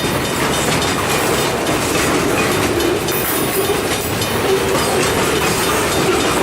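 Freight train cars rolling past close by: a steady rumble with wheels clicking over the rail joints.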